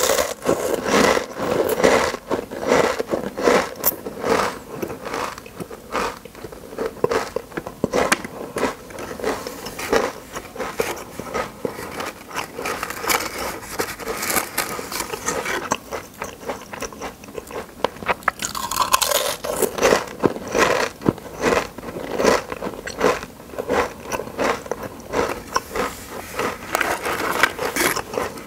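A person biting and chewing a crisp, crunchy food close to the microphone: many sharp crunches in quick, irregular succession, with the food's identity hidden.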